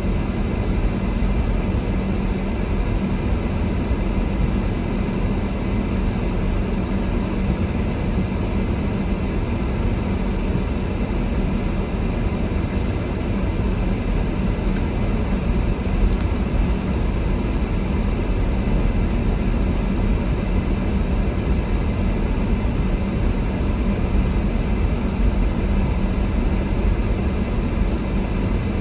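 Steady road and engine noise heard inside a moving car's cabin, an even low rumble that holds throughout.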